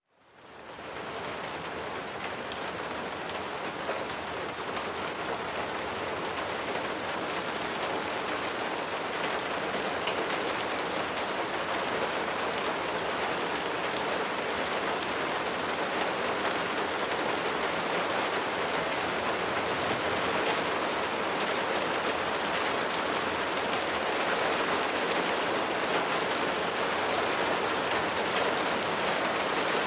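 Steady rain falling, with scattered individual drops ticking through it. It fades in over the first second and grows slowly louder.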